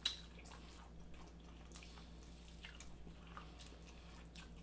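Faint wet chewing and smacking of people eating sauced chicken wings: irregular small mouth clicks, with a sharper click right at the start.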